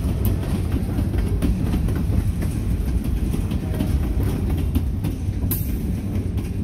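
Covered hopper cars rolling past on the rails: a steady low rumble of steel wheels with scattered clicks and clanks as they roll over the track.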